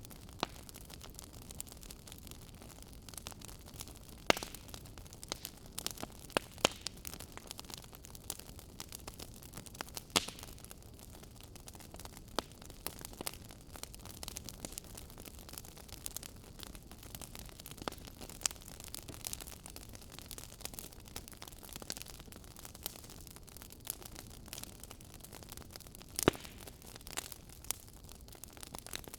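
Wood fire burning: a steady low hiss with frequent irregular sharp crackles and pops, a few louder snaps scattered through.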